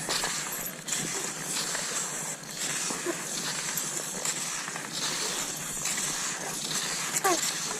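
Cross-country skis sliding and crunching over snow in a steady striding rhythm, with two short squeaks, one about three seconds in and one near the end.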